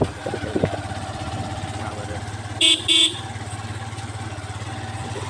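A motorcycle engine running steadily on the move, with two short horn honks in quick succession about two and a half seconds in.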